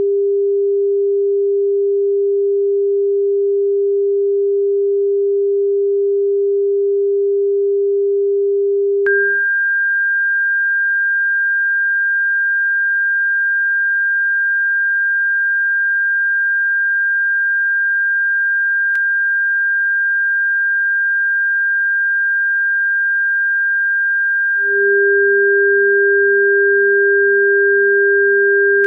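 Electronic sine tones of a bird-repellent sound track: a steady low tone that switches about nine seconds in to a steady higher tone, with the low tone joining it again near the end.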